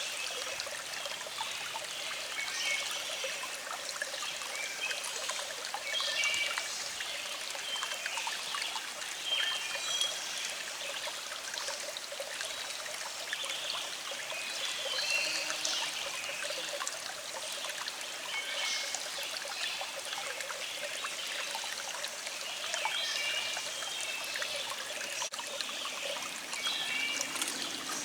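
Small stream trickling and babbling steadily over rocks, with birds chirping and singing on and off throughout.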